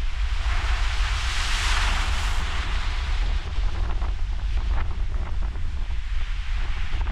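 Ocean surf with wind buffeting the microphone as a steady low rumble. About a second in, a wave breaks and washes in, its hiss swelling and then fading over a couple of seconds.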